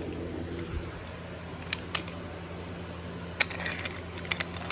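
A few light, irregular clicks and taps over a steady low hum.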